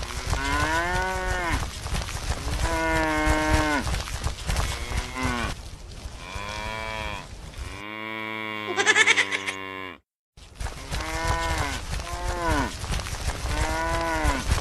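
Cow mooing again and again: a series of long, drawn-out moos, with a brief silence about ten seconds in before the moos resume.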